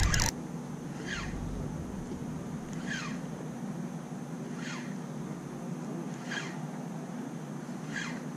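A bird repeating a short, falling whistle-like call about every second and a half, over a steady low hum.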